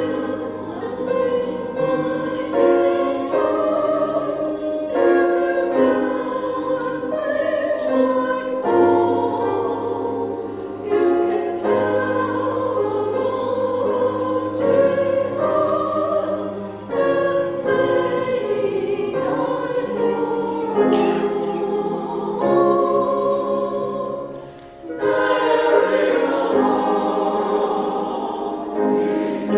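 Church choir singing an anthem in parts, held notes moving in chords over a sustained bass, with a short break about 25 seconds in before the singing resumes.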